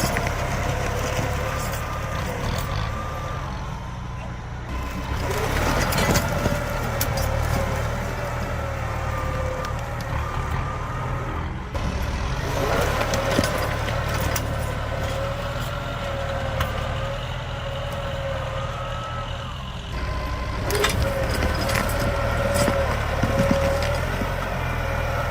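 Tractor engine running steadily, with a wavering high whine over its low running.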